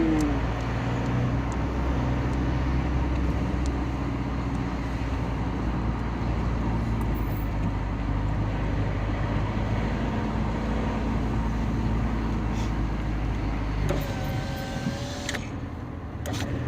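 Car engine and road noise heard from inside the cabin while driving, a steady low hum. The engine note drops away near the end.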